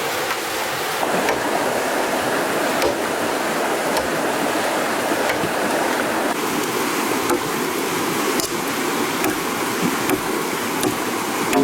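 Steady rush of water, with a few faint ticks here and there.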